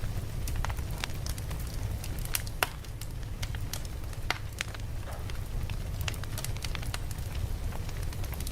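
Campfire burning: wood crackling with irregular sharp pops and snaps over a steady low rumble.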